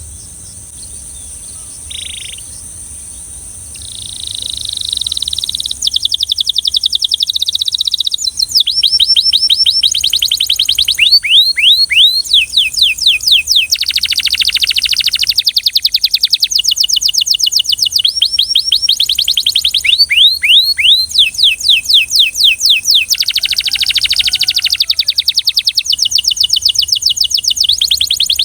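Canary singing: after a quiet start it breaks into loud, fast trills of repeated falling notes, in phrases that change speed, from about four seconds in.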